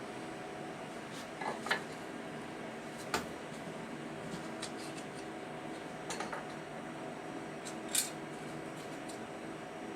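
A few light metallic clicks and clinks, scattered about a second or more apart, over a steady low hum.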